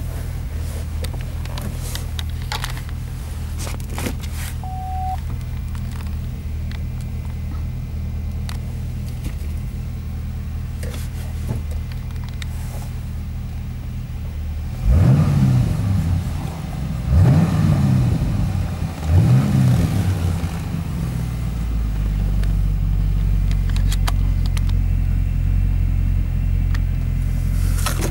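Chevrolet Camaro 45th Anniversary Edition engine idling, heard from inside the cabin, with three short blips of the throttle about two seconds apart past the middle. After the blips it settles into a slightly louder steady idle.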